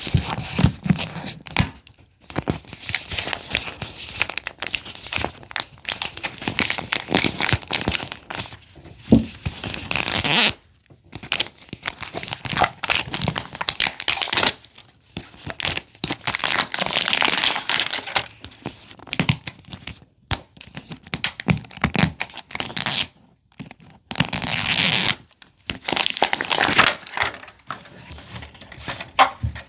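Thin plastic packaging crinkling and tearing in irregular bursts with short pauses, as miniature toy items are unwrapped and handled.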